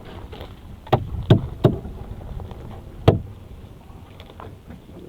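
Four sharp knocks over a steady rush of background noise: three in quick succession about a second in, and a single loud one near three seconds in.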